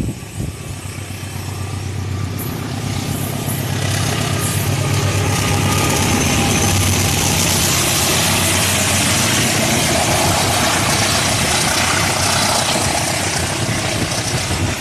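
Diesel-hauled train passing through the station: a low engine drone at first, then rolling wheel-and-rail noise builds over the first few seconds and stays loud and steady.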